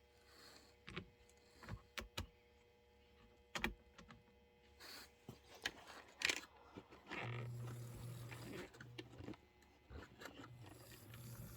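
A few light clicks and knocks of handling, then about seven seconds in the small electric motor of a Proto 1000 RS-11 HO-scale locomotive starts and runs with a steady low hum, freshly oiled after its gears had seized. The hum stops briefly and starts again near the end.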